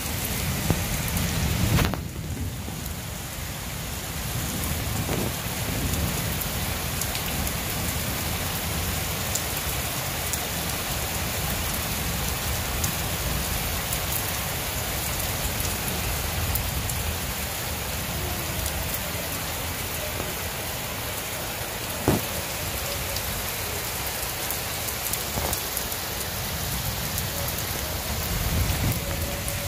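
Heavy rain falling steadily in a thunderstorm, with a single sharp crack about three quarters of the way through.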